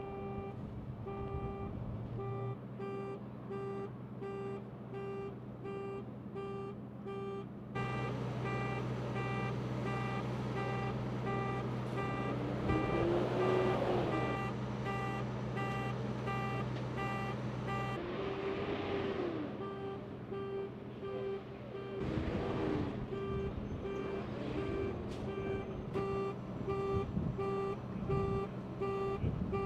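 A heavy vehicle's backup alarm beeping steadily at an even pace over an idling engine, with cars passing by a few times.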